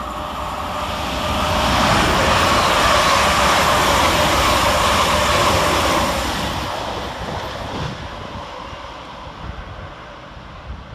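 Two coupled Class 350 Desiro electric multiple units running past, with the rush of the train and a steady electric whine. They build to their loudest over a few seconds, then fade away.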